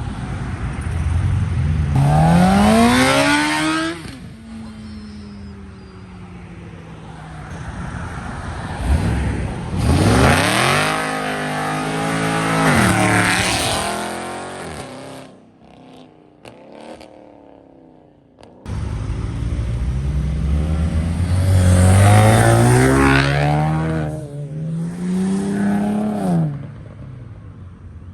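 Modified cars pulling away hard one after another, each engine revving up with its pitch climbing steeply, with breaks in the climb at gear changes. There is a short quieter gap about halfway through.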